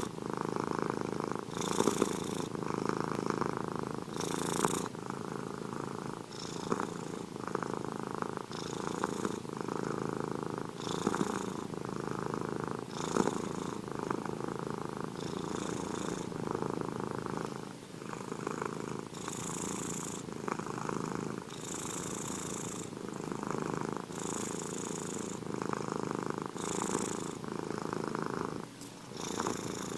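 Domestic cat purring steadily, close up, in an unbroken rumble, with a soft breathy hiss on each breath about every two seconds.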